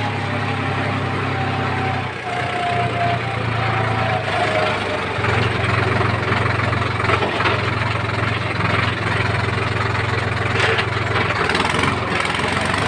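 Diesel engine running steadily. A faint falling whine is heard over the first few seconds, and from about five seconds in a rougher, noisier sound joins the engine.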